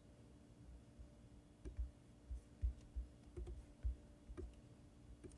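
Faint, irregular clicking and tapping of a computer mouse and keyboard, about a dozen clicks spread unevenly, over a low steady hum.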